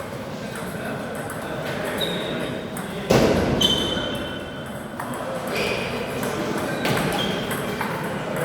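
Table tennis rally in a large hall: a celluloid-type ball clicking off bats and the table, each hit leaving a short ringing ping. Background murmur of voices from around the hall, with a louder, noisy burst about three seconds in.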